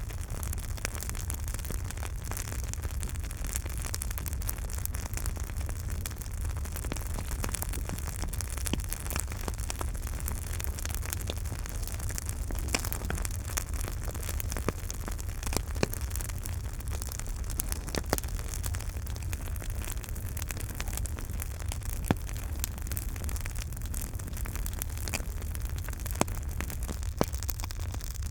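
Campfire crackling: a dense run of small sharp crackles and a few louder pops over a steady low rumble of the burning fire.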